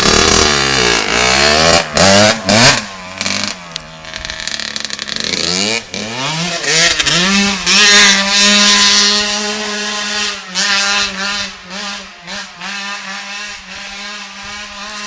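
Kawasaki 85cc two-stroke motocross bike engine revving up and down several times, then holding a steady pitch from about halfway through.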